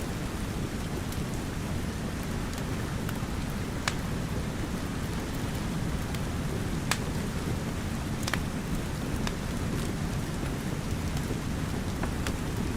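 Steady rain with a low rumble beneath it, and a wood fire crackling with a few sharp pops scattered through.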